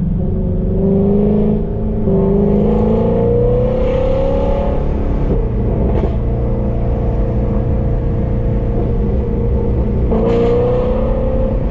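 Shelby GT350's 5.2-litre flat-plane-crank V8 through Kooks long-tube headers and catted competition exhaust, accelerating with the engine note climbing in pitch over the first few seconds (a brief dip about two seconds in). It then runs steadily and climbs again near the end.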